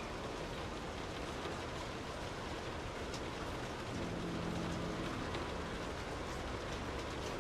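Steady rain falling. About four seconds in, a brief low hum with a few pitched tones rises slightly above the rain for a second or so, then fades back into it.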